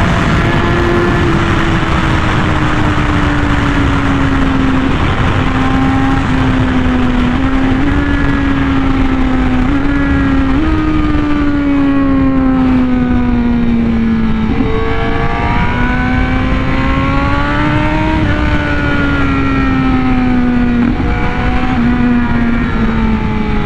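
Honda Fireblade RR-R SP's inline-four engine running at high revs through an SC Project titanium exhaust at speed, with wind rush. The engine note sinks slowly and jumps up in pitch several times, then climbs for a few seconds midway.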